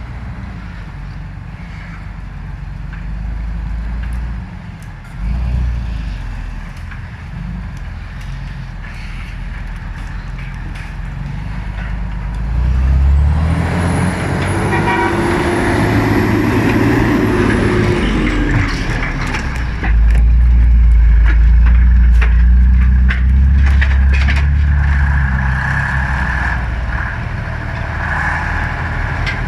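Heavy Ural off-road truck engines running and revving under load, louder about halfway through and again from about two-thirds of the way in.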